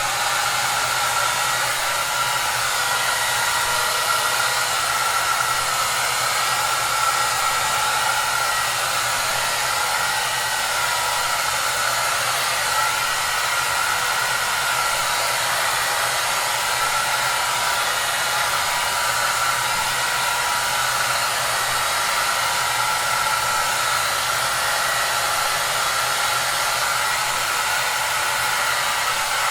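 Hair dryer running steadily: an even rush of blown air with a faint steady hum and whine underneath.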